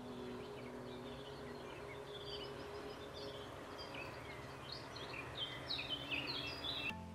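Small birds singing, a string of short high chirps and whistles that grows busier in the second half, over a steady outdoor hiss.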